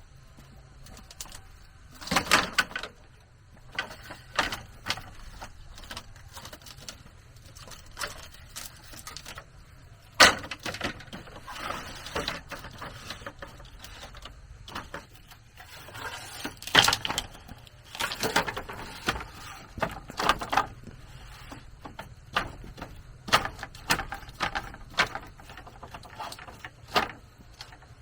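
Irregular knocks and clatter of bamboo being handled and worked, in uneven clusters of sharp hits.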